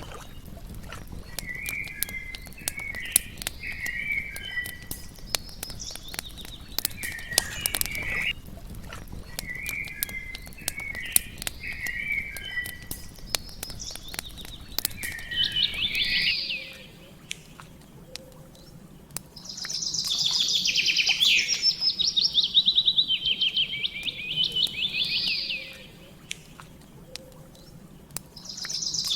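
Songbirds singing in short repeated phrases over the crackle and pop of a campfire. About halfway through, the ambience changes to a bird giving long, rapid trills in two spells.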